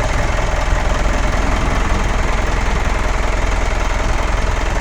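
Truck diesel engine idling steadily, with a rapid, even pulse.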